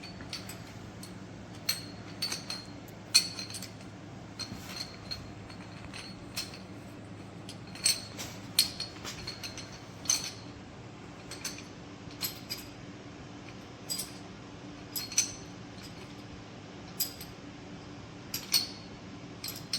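Light metallic clinks and taps, scattered irregularly, as steel rocker arm parts and pushrods are handled and set in place on a V8 engine's cylinder head, over a steady low hum.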